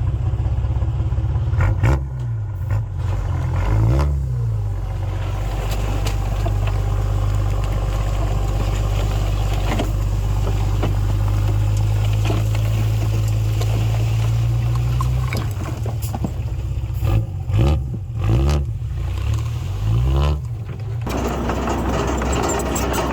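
Bulldozer diesel engine running under load, its pitch rising and falling a few times in the first seconds, holding steady through the middle, then rising and falling again several times near the end.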